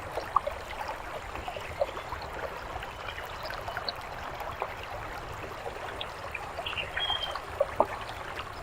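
Birdbath fountain trickling and splashing steadily, with scattered small drips.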